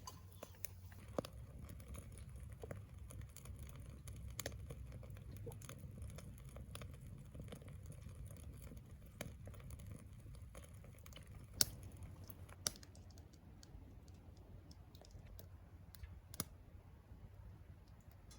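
Wood burning in a secondary-combustion wood stove: a faint low rumble of fire with scattered sharp crackles and pops, a few louder pops in the second half.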